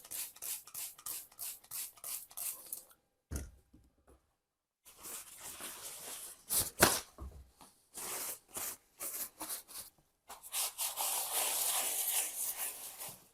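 Hand scrubbing of painted floor tiles coated in bicarbonate paste: quick back-and-forth rubbing strokes, about three a second, in several stretches. Two dull knocks come in between, the louder about seven seconds in.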